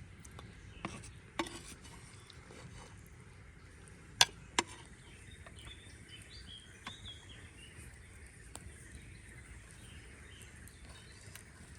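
Scattered sharp knocks or cracks over a faint outdoor background. The loudest come as a pair about four seconds in, less than half a second apart, with a weaker pair about a second in and a few faint high chirps in between.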